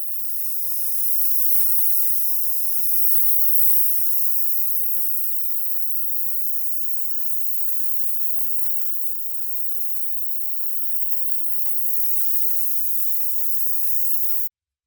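Paint spraying, a steady high hiss that swells and eases a little and cuts off suddenly near the end.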